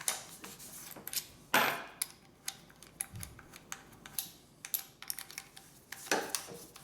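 Scattered light clicks and taps of small tools and hardware being handled and set down, with a louder knock about a second and a half in and another about six seconds in.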